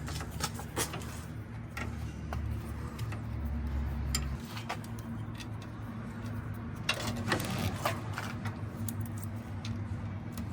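Scattered light metallic clinks and taps of sway bar parts and mounting hardware being handled, with a cluster of clinks about seven seconds in, over a steady low hum.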